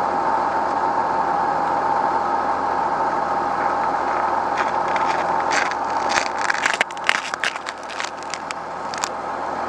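A steady motor drone with a strong hum, joined about halfway through by a run of sharp crackling clicks and snaps that die out near the end.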